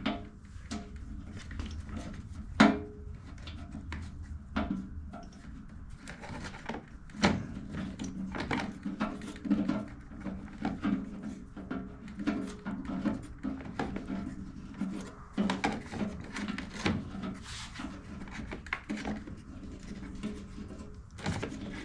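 Irregular clicks, taps and knocks of parts being handled and fitted back onto a small two-stroke generator, with one louder knock a few seconds in, over a low steady hum.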